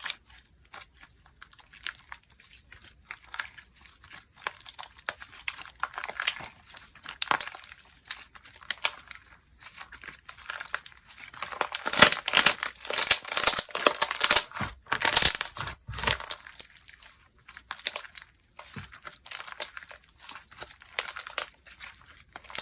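Hands squishing, stretching and pressing slime, making crackly, crinkling clicks and pops that are densest in the middle.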